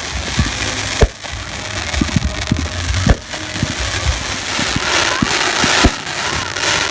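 Fireworks display going off: a run of sharp booms and pops over a steady noisy hiss, which swells about five seconds in.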